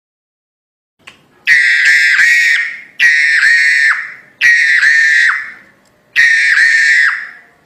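Jalak hongkong (crested myna) calling loudly: four long, harsh, whistle-like calls in a row, each about a second long, with quick downward flicks in pitch, after a second of silence.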